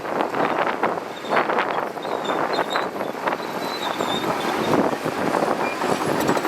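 Shantui DH17C2 bulldozer working: a steady, noisy machine rush that swells and eases irregularly, with faint short high squeaks over it.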